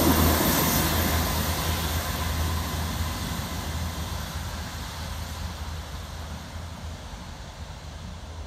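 South Western Railway diesel multiple unit pulling away, its low engine hum and wheel rumble fading steadily as it draws off into the distance.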